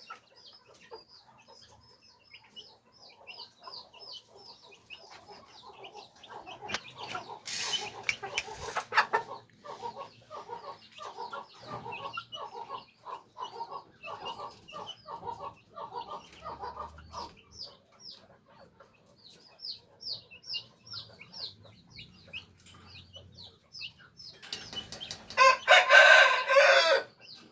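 Parrot-beak roosters clucking in a quick run of calls, about two a second, over repeated high thin chirps, with a loud crow near the end.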